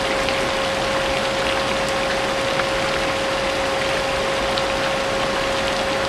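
Vacuum cleaner running steadily with a constant whine, layered with falling rain and scattered drop ticks.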